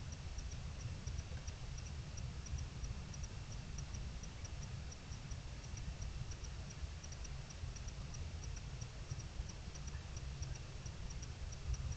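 Short, high chirps repeating about three to four times a second, often in pairs, typical of a night insect calling, over a steady low rumble.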